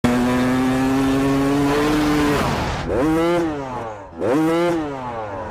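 Motorcycle engine held at high revs, then revved up and back down twice, with a short near-closing of the throttle between the two rises.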